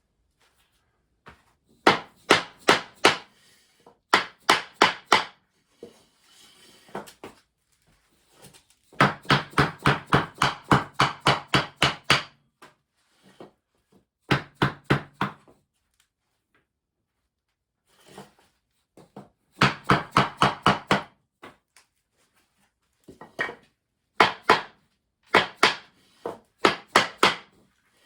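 Hammer blows knocking 2x2 ft wood-and-foam basement subfloor panels tight against each other at the joints. The blows come in runs of several quick strikes, about four a second, with pauses between. The longest run is in the middle.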